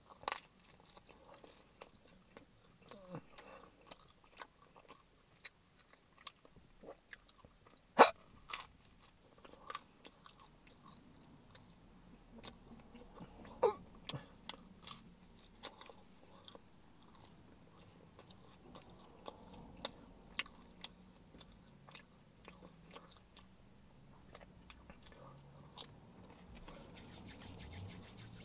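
A person biting and chewing a slice of pepperoni pizza close to the microphone: irregular mouth clicks and smacks. One much louder click comes about eight seconds in, and another about fourteen seconds in.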